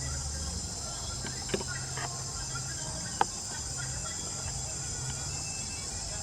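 Steady high-pitched insect chirring, with a low hum underneath and two short sharp taps, about a second and a half and three seconds in.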